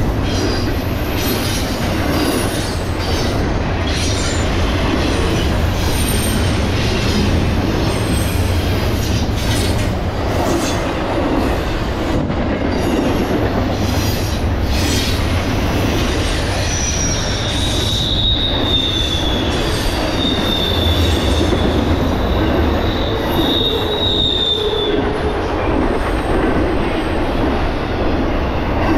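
Double-stack intermodal freight train rolling past at about 50 mph: a steady rumble and clatter of steel wheels on the rails. A high, steady wheel squeal rises over it for several seconds in the second half.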